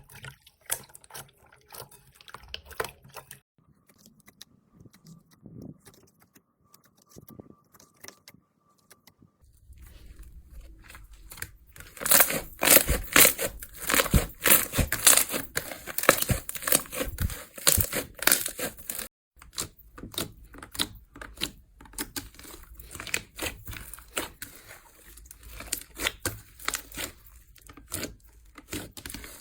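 Slime being worked for ASMR, giving rapid crackling and popping clicks. Fainter and sparser at first, it turns loud and dense about a third of the way in, breaks off briefly, then goes on crackling.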